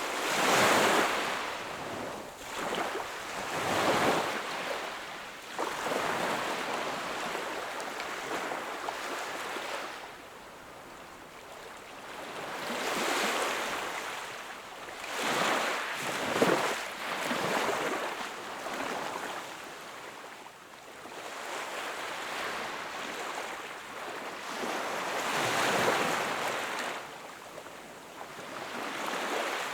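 Ocean waves washing onto the shore: the surf swells and fades every few seconds, with the loudest breaks about a second in, around the middle and near the end.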